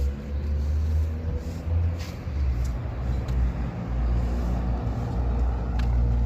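A road vehicle running, heard as a low, uneven rumble with a faint steady hum above it.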